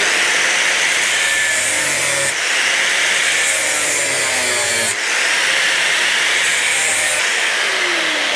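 A cutting wheel grinding through the welded sheet-metal seam of a motorcycle fuel tank, a steady high-pitched cutting noise whose pitch sags and recovers a few times as the disc is loaded.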